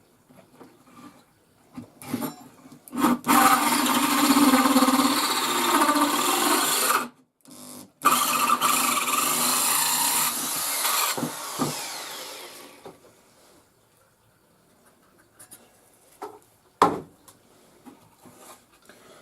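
Power drill driving an 86 mm hole saw through a pine shelf: two runs of steady cutting with a short stop between them, the second fading away as the saw breaks through. A single sharp knock follows a few seconds later.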